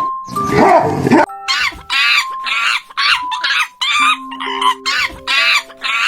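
An animal calling: one longer call, then a quick series of short, high-pitched calls at about two to three a second, over held background music notes.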